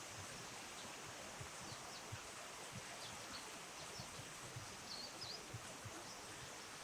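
Faint outdoor ambience: a steady background rush with a few short, high bird chirps scattered through it, and soft low thumps.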